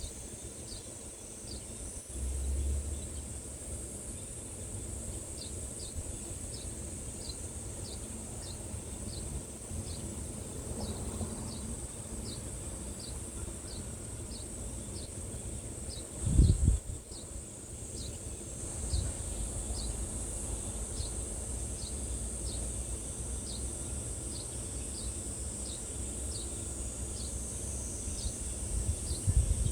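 Steady high-pitched insect buzzing, with a short high chirp repeating a little over once a second. A brief low thump comes about 16 seconds in.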